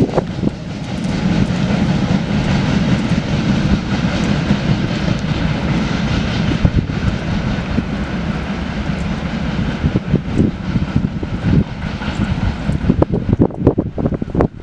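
Freight train rolling past: a loud steady rumble and drone of the wagons on the rails, with sharp wheel knocks coming more often in the last few seconds.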